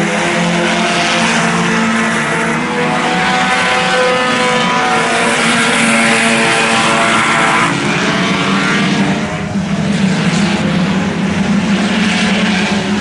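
Several IMCA Sport Compact race cars' four-cylinder engines running at speed together around a dirt oval, their pitches rising and falling as the field circulates, with a short dip in loudness about two-thirds of the way through.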